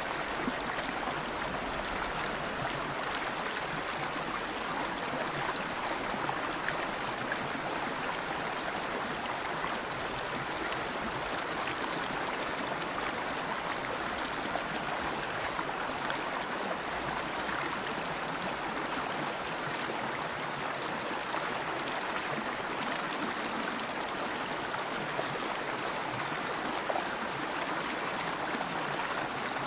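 River water flowing, a steady rushing and babbling with small splashes over the surface.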